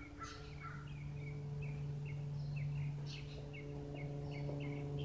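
Steady low drone of a Cessna light aircraft's piston engine and propeller overhead. Over it, a small bird chirps repeatedly in short high notes, two or three a second.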